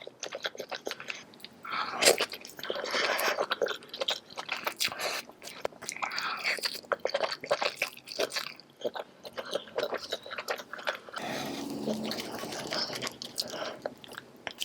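Close-miked mouth sounds of someone biting and chewing saucy seafood: wet smacking, slurping clicks and occasional crunches in an irregular stream.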